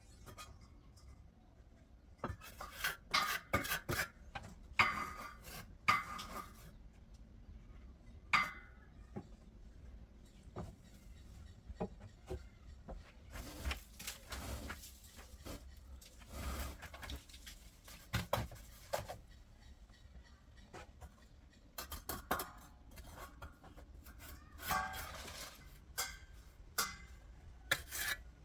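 Irregular metal clinks and scraping in short bursts, with pauses between them.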